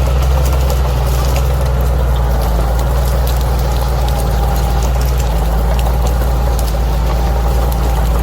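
Bulldozer's diesel engine running steadily, a low drone, with scattered clicks and crackles over it.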